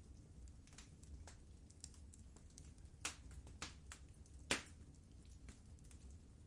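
Wood fire crackling in a fireplace: scattered sharp pops and snaps over a faint low rumble, the loudest pop about four and a half seconds in.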